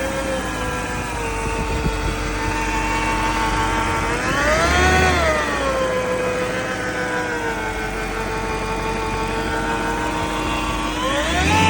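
BMW E39 540i's 4.4-litre V8 idling, its revs blipped up and back down once about four seconds in and rising again near the end. This is the engine whose strange noise the owner is trying to show.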